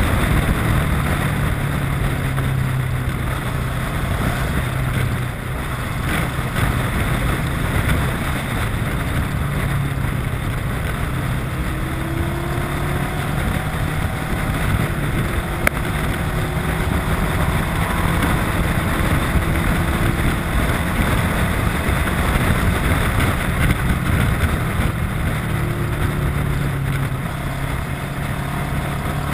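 Kawasaki ER-6n's parallel-twin engine running steadily under way, with wind and road noise over the microphone.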